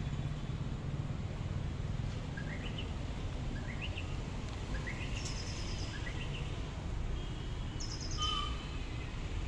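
Birds calling over a steady low rumble of background noise: a short rising call repeated about once a second for several seconds, with a couple of brief higher trills.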